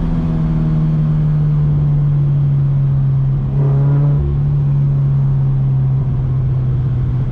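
Turbocharged Scion FR-S's 2.0-litre flat-four engine droning at a steady cruise, its pitch easing slowly lower, with a brief swell in level about four seconds in.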